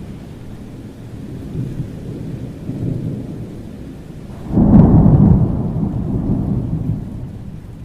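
Thunderstorm with steady rain and low rumbling thunder; a loud thunderclap breaks about four and a half seconds in and rolls away over the next few seconds.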